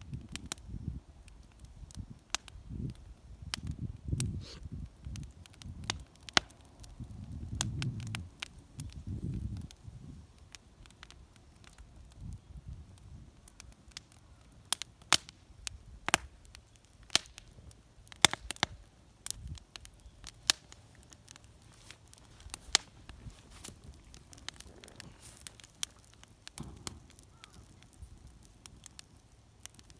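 Wood fire burning in a small homemade fire pit, crackling with irregular sharp pops. A low rumbling noise runs under the pops for roughly the first ten seconds.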